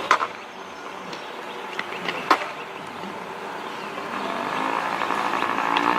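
Yamaha PW50 minibike's small two-stroke engine running, getting louder over the last couple of seconds as it comes closer. A few sharp clicks, one near the start and one about two seconds in.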